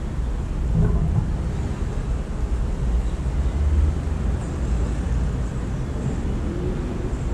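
Steady low rumble of city traffic, with a few faint, high bird chirps about halfway through.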